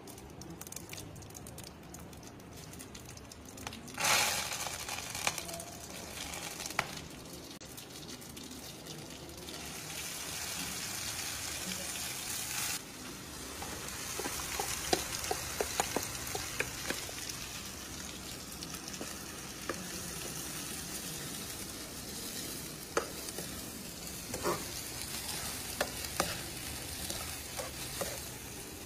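Oil sizzling and frying in a steel kadai, with a sudden loud burst of sizzling about four seconds in. Later a mashed papaya mixture goes into the pan and keeps frying, with the clink and scrape of a metal spoon against the steel bowl and pan.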